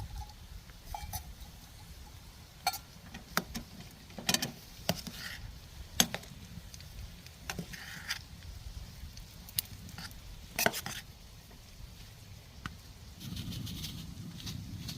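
A utensil clinking and scraping against a frying pan in irregular clatters as bacon, onions and peppers are stirred, with some light sizzling. A steadier rushing noise comes in near the end.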